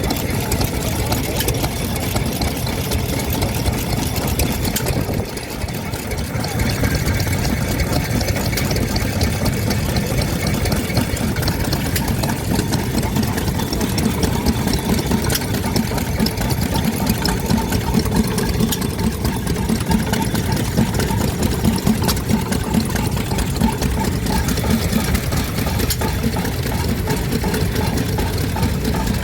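Vintage stationary engines running steadily, several at once, with a brief drop in level about five seconds in.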